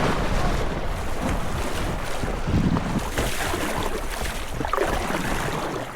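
Rushing water of river rapids around a kayak, a steady loud wash, with wind buffeting the microphone.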